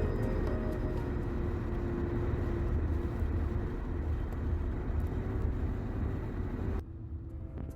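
Steady rumble of a vehicle under way, with a low engine drone; it cuts off abruptly near the end.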